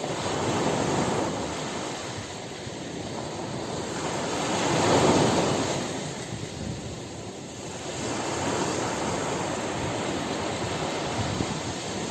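Ocean surf: waves breaking and washing in, swelling to their loudest about five seconds in, then easing and building again.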